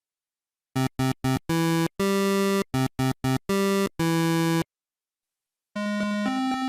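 Synthesized chord-like tones sounded in a pattern of three short blasts and two long ones, played twice. After a brief pause a synthesizer melody starts near the end.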